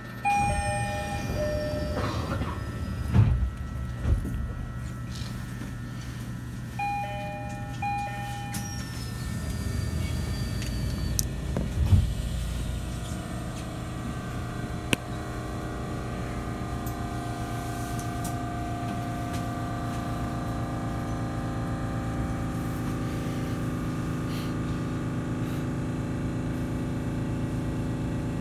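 Inside an E129-series electric train at a station stop: a two-note falling door chime sounds near the start and again about seven seconds in, with heavy thumps of the sliding doors after each. Through the second half a steady hum of the running gear and motors sits over a low rumble as the train moves.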